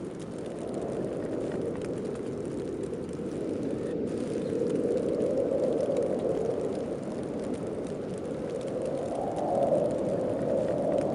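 Wind of a heavy snowstorm blowing in a steady rush, swelling into stronger gusts around the middle and again near the end, where the pitch rises slightly.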